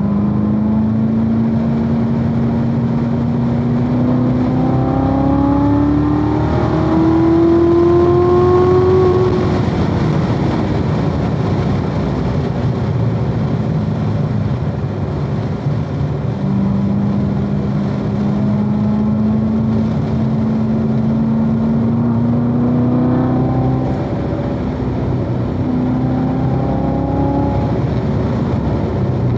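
2016 Corvette Z06's supercharged 6.2-litre LT4 V8 at full throttle on track, its pitch climbing for several seconds. It lifts off about nine seconds in, pulls again from about sixteen seconds to twenty-three, makes a shorter climb a little later, then drops away near the end.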